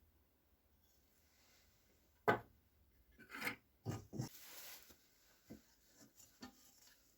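Hand work on small parts: a sharp knock, then a few short scrapes or rubs and several light taps.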